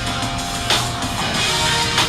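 Live band music: electric guitar over a drum kit, with a sharp drum hit about 0.7 s in.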